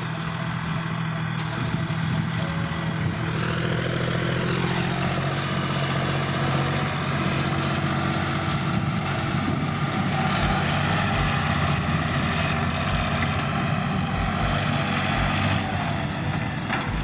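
Tractor engine running steadily, with a brief rise and fall in pitch about four seconds in.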